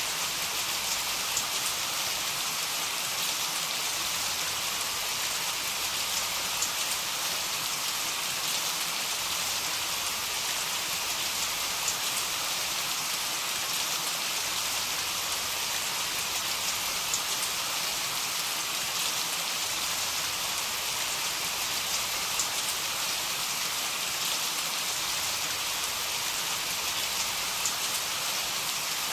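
Heavy rain falling steadily: an even hiss of rain with scattered small drop ticks.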